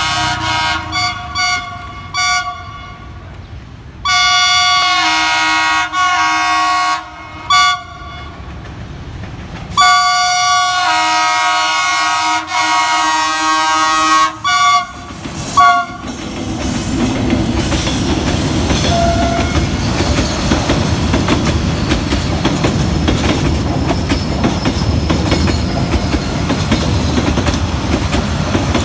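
D20E diesel-electric locomotive sounding its multi-tone horn as it approaches: a string of short toots, a long blast, more short toots, a second long blast about ten seconds in, and a few final toots. From about halfway through, the locomotive and its passenger coaches roll past close by with a steady rumble and wheel clatter over the rail joints.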